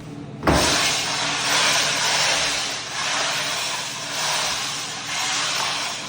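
Floor buffer running on a freshly oiled oak floor, working hard wax oil into the wood: a steady motor hum with a loud hiss of the pad on the floor that starts suddenly about half a second in and swells and eases in waves as the machine is swung.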